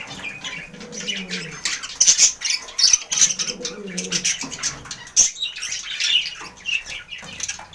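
Budgerigars chirping and chattering in quick, irregular bursts: a male budgie's courtship warble to a hen.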